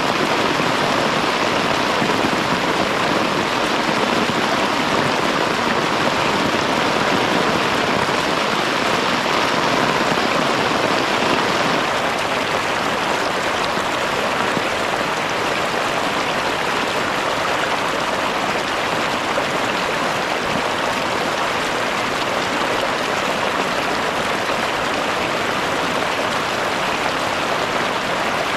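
Heavy rain pouring down as a steady, dense hiss, a little quieter from about twelve seconds in.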